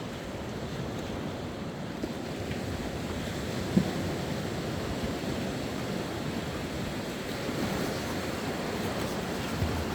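Sea waves washing onto the shore, a steady rush, with wind on the microphone. A brief low thump about four seconds in, and a smaller one near the end.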